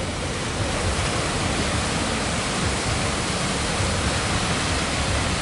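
Steady rush of surf and floodwater: an even, unbroken noise with no single wave crash standing out.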